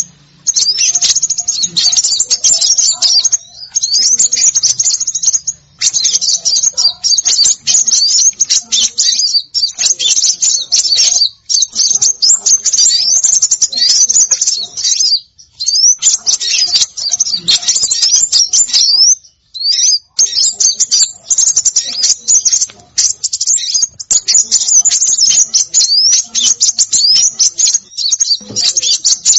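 Small songbirds chirping and twittering very rapidly and densely, high-pitched notes crowding one another, with short breaks about three and a half seconds in, around the middle and near twenty seconds. The recording is of the kind played as a lure for small birds.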